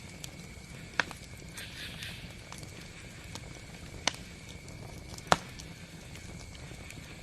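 Campfire burning: wood crackling with scattered sharp pops, the loudest about five seconds in, over a low steady rumble of the flames.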